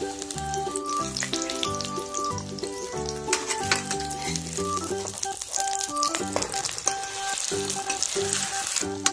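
An egg omelet with leung leaves sizzling and crackling in hot oil in a wok, the crackle growing stronger near the end. Background music with a melody and bass line plays throughout.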